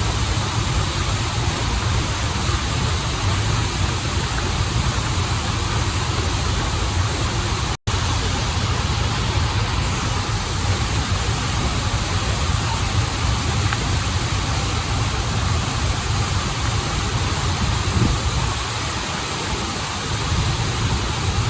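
Steady rush of a waterfall and flowing stream, with a split-second break in the sound about eight seconds in.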